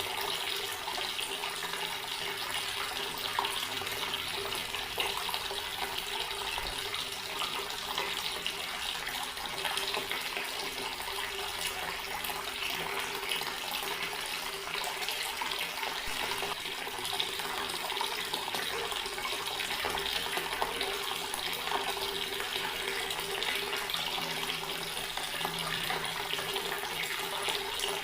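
Water tap running steadily, the stream splashing into a sink with an even rush and a faint steady hum underneath.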